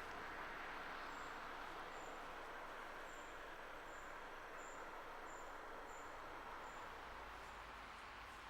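Faint outdoor ambience: a steady hiss with a high, short insect chirp repeating about every two-thirds of a second.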